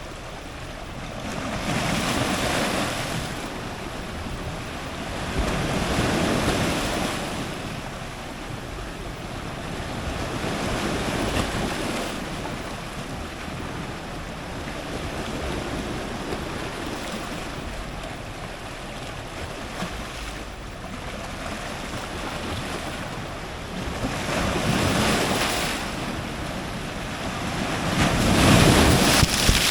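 Strong ocean surf breaking on rocks close to the microphone: a continuous wash of water swells into loud surges every few seconds, the loudest breaking near the end.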